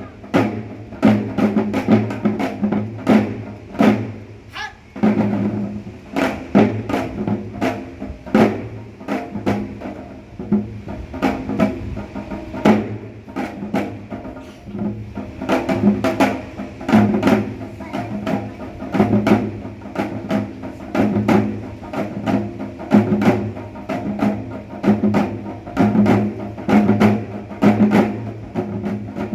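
Korean traditional percussion ensemble (pungmul) playing live: dense, rapid drum and gong strikes in a driving rhythm.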